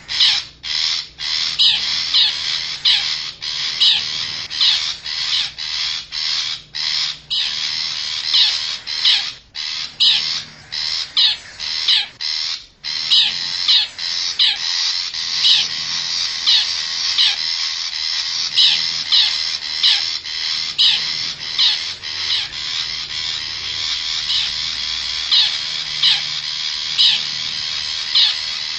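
Long-tailed shrike (cendet) calling: a dense, harsh chatter with sharp accented notes repeating about every three-quarters of a second, played as a lure call to draw wild shrikes in.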